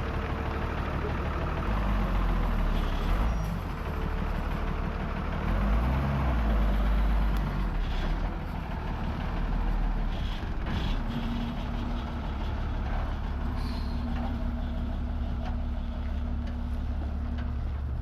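A bus engine running with a steady low rumble that swells louder twice in the first half; a steady hum joins in about halfway through.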